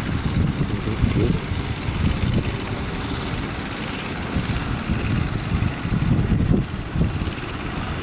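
Strong wind buffeting the microphone over a running boat engine, its loudness rising and falling unevenly.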